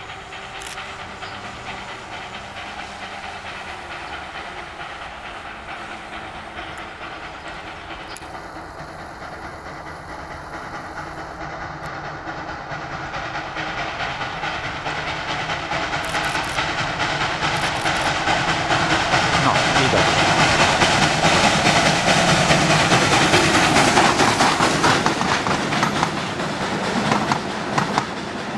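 Steam train approaching and passing, its wheels clattering over the rail joints with steam hissing. It grows steadily louder to a peak a little past the middle, then eases off.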